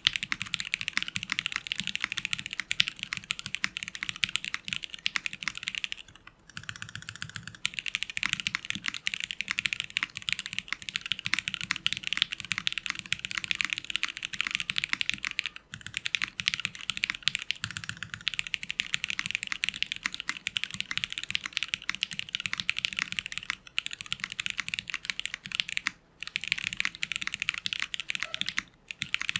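Fast typing on a Liddell mechanical keyboard with Jwick Yellow linear switches: a rapid, continuous stream of keystrokes, broken by a few short pauses.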